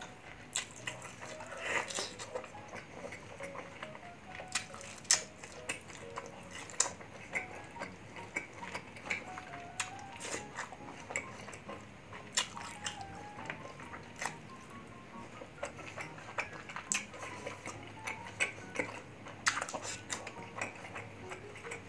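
Close-up eating sounds: a person chewing grilled chicken and rice eaten by hand, with many sharp, irregular wet mouth clicks and smacks. Faint background music with a simple melody plays underneath.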